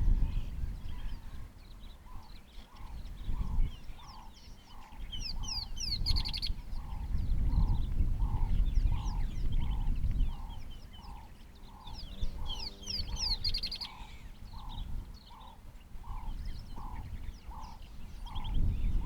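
Wild bird calls: one bird repeats a single short note at a steady pace, about one and a half times a second, while other birds give quick high chirps in two short bursts. A low rumble runs underneath.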